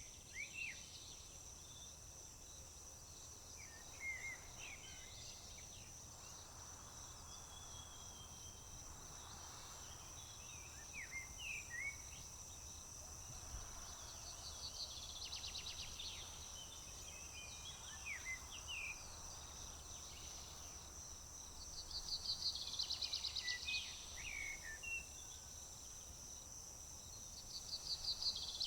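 Rural summer soundscape: insects keep up a steady high-pitched trill while birds call with short scattered chirps. A fast trill of rapidly repeated notes comes three times: about halfway through, then louder later and again near the end.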